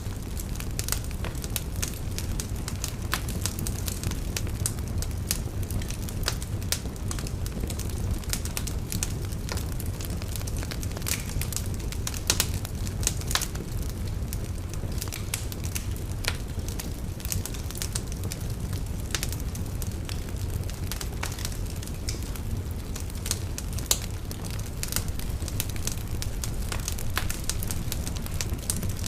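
Wood fire burning in a fireplace: a steady low rumble of flames with many irregular sharp crackles and pops, a few louder snaps about 12 and 24 seconds in.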